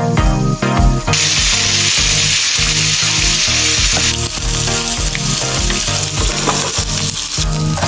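Food frying in hot oil in a frying pan: a steady sizzle that sets in about a second in, strongest through the first half, over background music with a steady beat.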